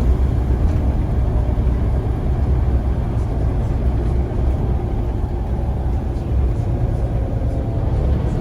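Scania CN94UA bus running, a steady low engine rumble with road noise.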